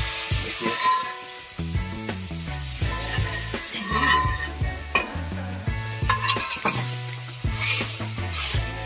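Dal sizzling in the hot oil of a tadka (tempering) in a kadai, while a metal spatula stirs it, scraping and clinking against the pan.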